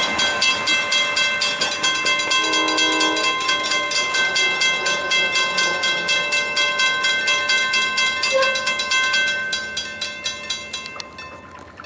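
A railroad bell ringing rapidly with a metallic clang as a train approaches. A short train horn note sounds about two and a half seconds in. The ringing fades away near the end.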